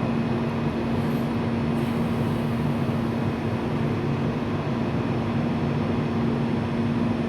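Seoul Subway Line 4 electric train at the station, a steady rumble with a constant low hum that does not change in pitch.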